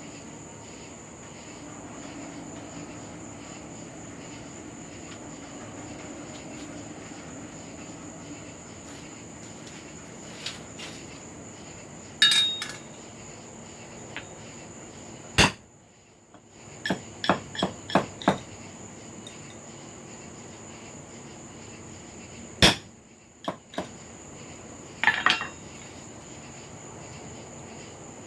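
Hammer blows on an anvil while forging a small hook from a carbon-steel cut nail: a few single ringing strikes, a quick run of about five lighter taps, then more single strikes.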